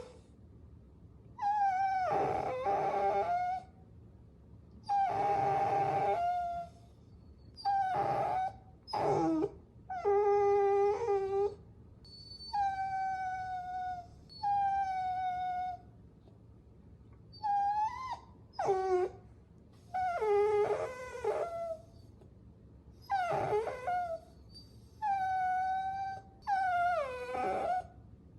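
Puppy whining: a string of about a dozen high, drawn-out whines, each one to two seconds long, some bending up or down in pitch, with short quiet gaps between them.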